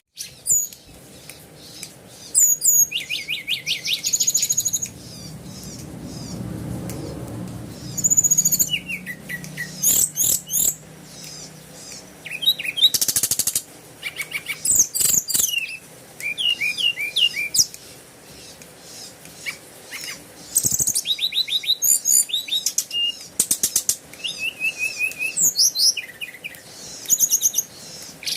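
Small birds chirping, with many short high calls and quick twittering runs of notes, and a low hum for a few seconds near the start.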